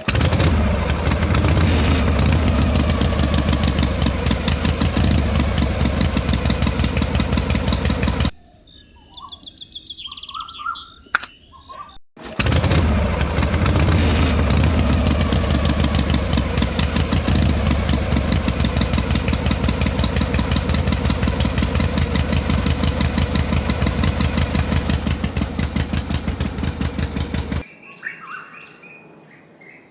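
A small model engine running with a fast, even rattle in two long stretches, cut off abruptly for about four seconds in between. Short bird chirps are heard in the quiet gap and after the engine stops near the end.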